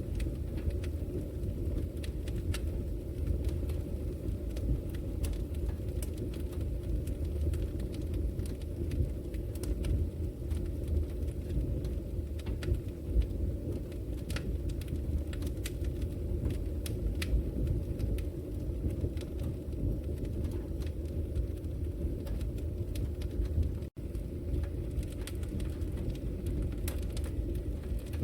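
Wood fire burning in a brick fireplace: a steady low rumble of flames with frequent sharp crackles and pops. The sound cuts out for a split second near the end.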